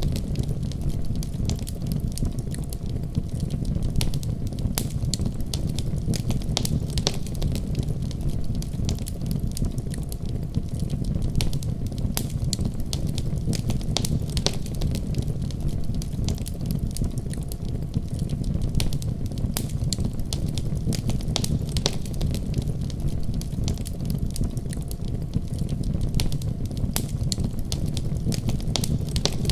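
Fire crackling: frequent sharp pops and snaps, scattered irregularly, over a steady low rumble.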